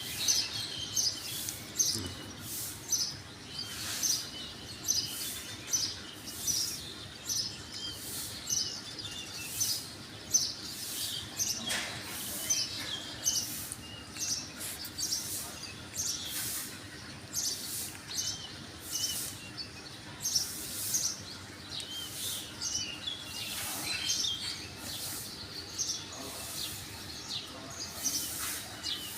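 Songbirds chirping outdoors in the early morning: a continuous run of short, high chirps, about two a second, some louder than others.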